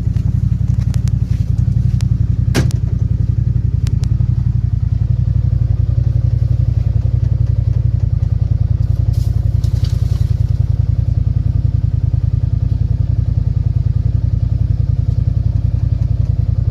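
Vehicle engine running with a steady low rumble, with a sharp click about two and a half seconds in.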